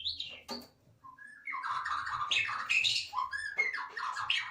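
Songbird calling: a short whistle at the start, then from about a second and a half in a rapid, varied run of chirps and whistles.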